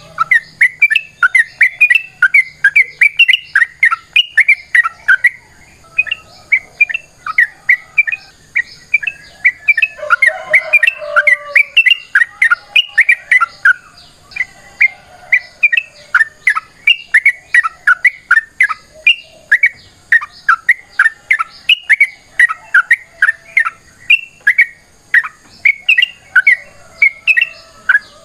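Yellow-vented bulbul (trucukan) singing a long, rapid chatter: short, sharp chirping notes delivered several a second without a break, in the energetic 'fighting' style, growing busier and denser around a third of the way in.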